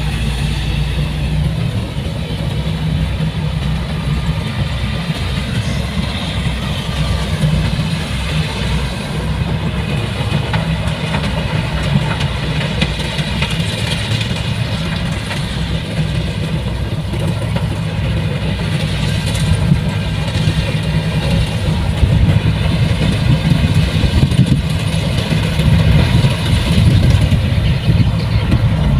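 Heavy machine's engine running steadily, getting slightly louder in the last few seconds.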